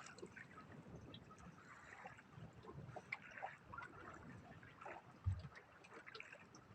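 Faint lapping and trickling of water around a small fishing boat, with scattered small knocks and one dull thump about five seconds in.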